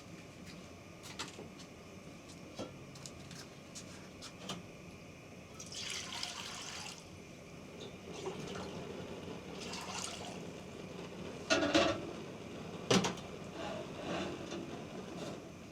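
Water pouring and splashing in short spells, with scattered small clicks and two louder short knocks near the end.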